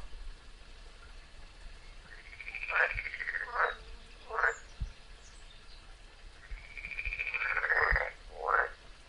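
Frog calling in two bouts about four seconds apart, each a drawn-out note that rises and falls, followed by two or three short clipped notes.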